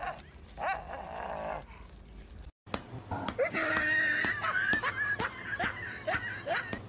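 A dog whining and yipping in short rising cries. After a brief break, more high squeaky cries follow.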